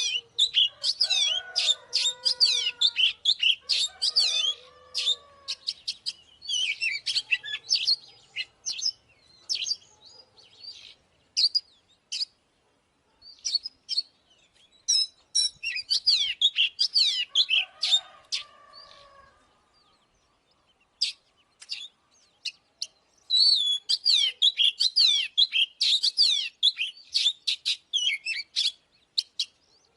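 Oriental magpie-robin singing: fast phrases of varied whistles and chattering notes, broken by short pauses, with a few lower, fuller notes underneath early on and again past the middle.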